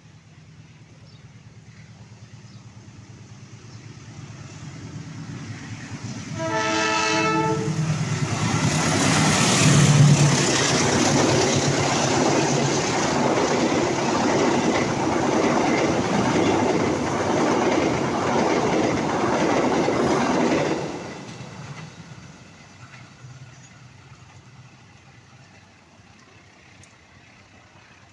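A passing train: it sounds its horn in one blast about a second and a half long, then goes by loudly with wheel and rail noise for about fourteen seconds before cutting off fairly suddenly and fading away.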